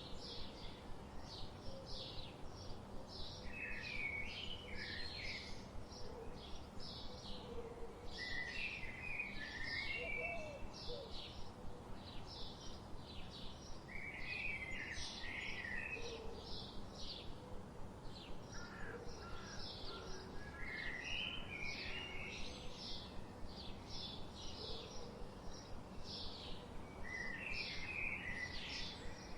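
Forest birdsong: a steady run of short, high chirps, about three a second, with a fuller warbled song phrase breaking in every five or six seconds, over a soft steady background hiss.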